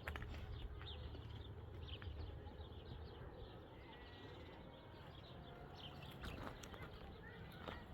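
Faint, scattered bird chirps over a steady low rumble, with a few light clicks near the end.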